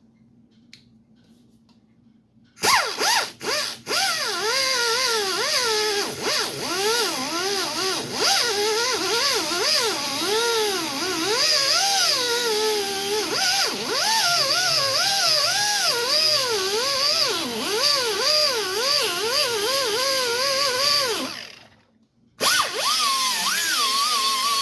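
Small angle grinder grinding out cracked body filler, its pitch rising and falling as it is pressed into the work and eased off. It starts a couple of seconds in with a few short bursts, runs steadily, cuts out near the end and starts again.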